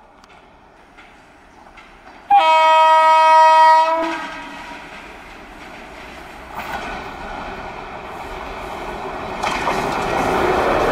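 A WAP-4 electric locomotive sounds one horn blast of about a second and a half. Then the locomotive and its coaches run in alongside the platform, and the rumble of the train and its wheels grows steadily louder as the locomotive passes close.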